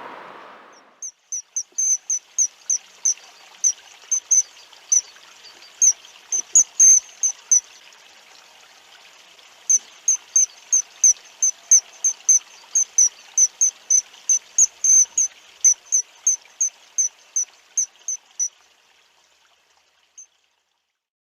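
High-pitched chirps repeated evenly about three times a second, with a two-second pause midway, over a faint steady hiss like running water; it all fades out near the end.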